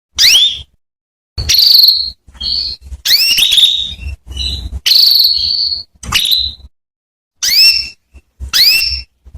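Female canary calling: a string of short, high chirps that sweep quickly upward, about one a second, with a few drawn out into a longer steady whistle and silence between them.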